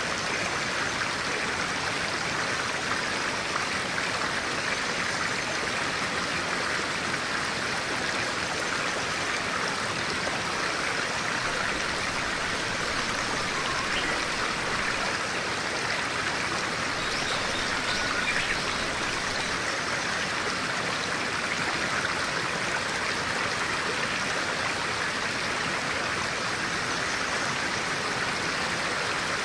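Clear stream flowing, a steady unbroken rush of running water.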